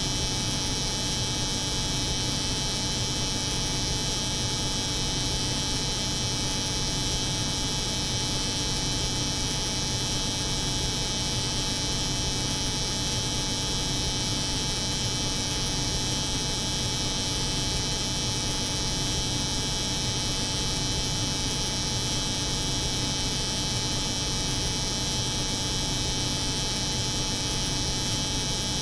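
Steady layered drone of a cold room's refrigeration hum mixed with the buzz of an electric hair clipper, unchanging throughout.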